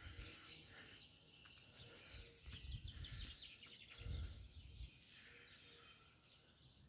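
Near silence: faint distant birds chirping, with a few soft low rumbles of wind or handling on the microphone.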